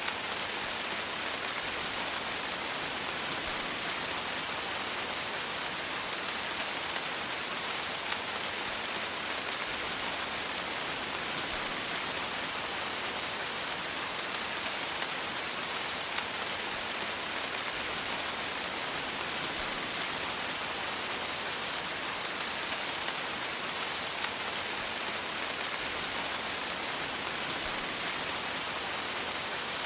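Steady rain falling, an even patter of raindrops hissing without let-up.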